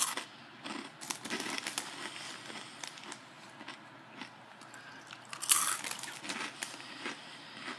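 A person crunching and chewing dry, crispy Scampi Fries corn snacks, in short crackly bursts. The loudest bite comes about five and a half seconds in.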